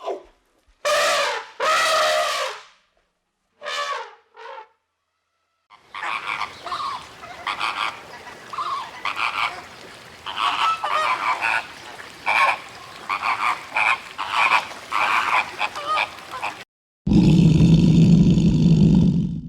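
A sequence of different animal calls. First come a few short pitched calls, then a run of many quick short calls lasting about ten seconds, then a loud, deep, steady call that starts near the end.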